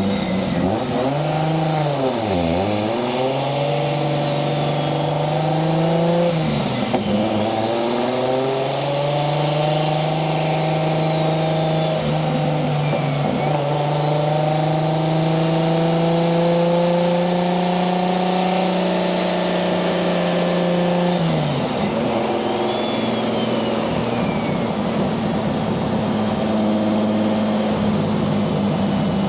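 Single-turbo 1JZ VVTi inline-six in a Nissan 240SX pulling under load. Its note climbs, drops and climbs again a few times as it shifts up, with a high turbo whistle rising and falling over it. It then holds a steady pitch, and about 21 seconds in drops back to a lower steady cruising note.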